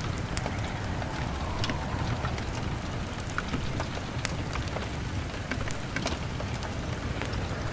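Steady rain against a window, with scattered sharp crackles and pops from a wood fire and a low rumble underneath.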